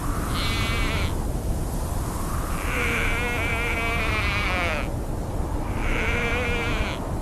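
Sheep bleating three times, the middle call the longest, over a steady low rumble of wind.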